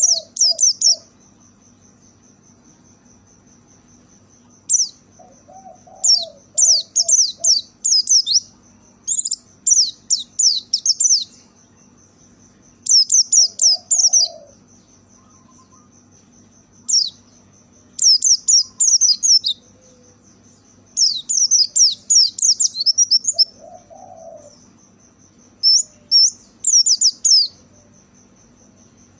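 White-eye (pleci) song in bursts of rapid, high twittering notes lasting a second or two, repeated every few seconds. A steady, thin, high tone runs underneath, and a softer, lower call sounds now and then.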